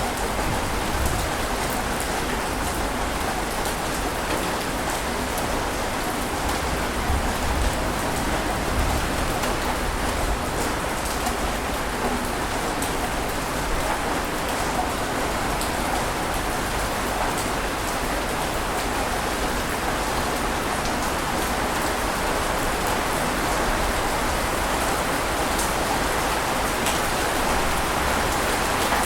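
Steady, unbroken rushing water noise with faint scattered patters and no distinct wave surges.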